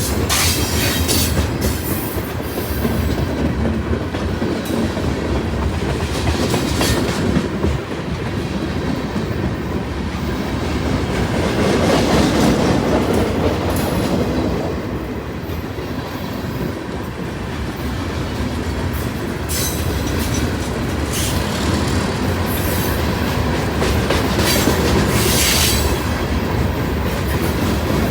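Train cars rolling past, their wheels clacking steadily over the rail joints with a continuous rumble. A few brief, high-pitched wheel squeals cut through.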